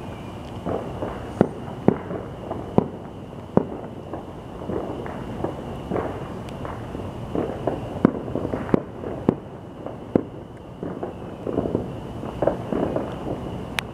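Distant fireworks going off all over a town at once: irregular sharp bangs and cracks, a few of them standing out, over a constant crackle of further bursts.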